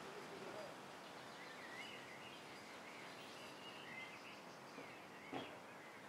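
Faint outdoor ambience with small birds chirping, short high chirps repeating through most of it. A single brief knock sounds about five seconds in.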